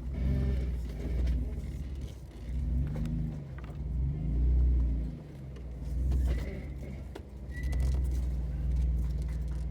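Jeep engine revving up and down in repeated swells as it crawls over rock, with a low rumble under it. Two short high squeaks come about six and seven and a half seconds in.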